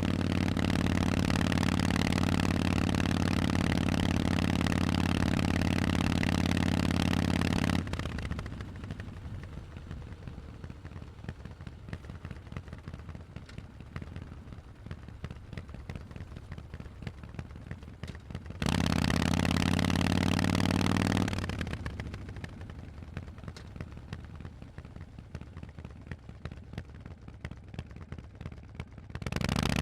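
Harley-Davidson Forty-Eight's air-cooled V-twin through Vance & Hines exhausts, running loud and steady on the throttle. About eight seconds in it drops away to a quiet, lumpy note off the throttle, comes back loud for about three seconds past the middle, drops off again, and opens up once more right at the end.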